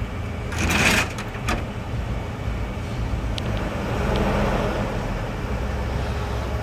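Motor vehicle running with a steady low rumble, with a brief loud hiss about a second in.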